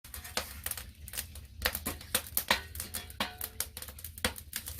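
Firewood burning in a traditional agungi firebox, crackling and popping with irregular sharp cracks, several a second, over a low steady rumble.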